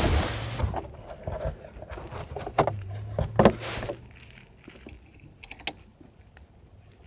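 Metal parts and hand tools being handled: several clunks and knocks in the first four seconds, then quieter clinks and one sharp click near the end.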